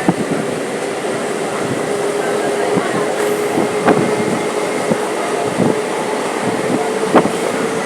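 Electric multiple unit local train running, heard from on board: a steady rushing rumble of wheels on rail with a steady motor hum, and a few sharp clacks over rail joints.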